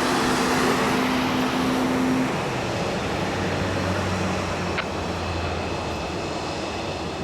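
Jet airliner engines: a steady rushing noise with a held humming tone, easing slowly in loudness.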